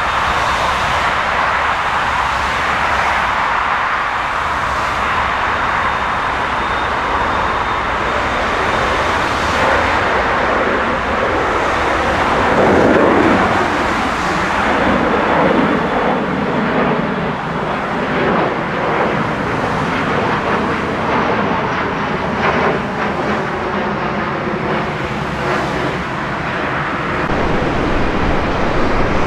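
Jet airliner engine noise: a loud, steady rush with a faint high whine, swelling about halfway through.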